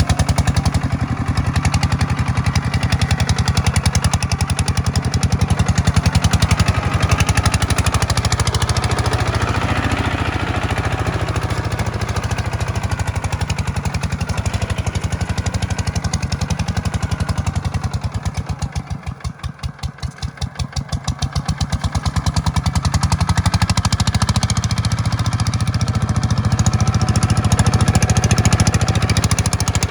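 Tractor engine running steadily. About eighteen seconds in it drops to a slower, quieter, pulsing beat for a few seconds, then picks back up to its earlier level.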